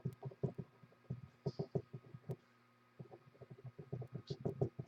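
Soft, muffled taps in quick irregular runs, like typing on a computer keyboard, with a pause in the middle, over a steady low electrical hum.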